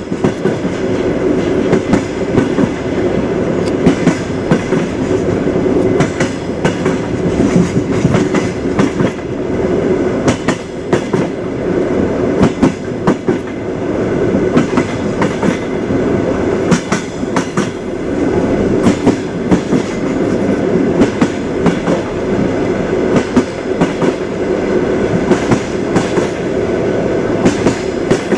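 A moving train's wheels clattering over the rail joints: a steady rumble with frequent sharp clacks at an uneven rhythm.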